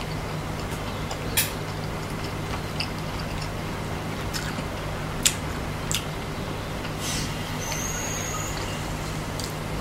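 A fried scorpion being chewed close to the microphone: a few sharp, scattered crunches of its shell, the loudest about five seconds in, over a steady low hum.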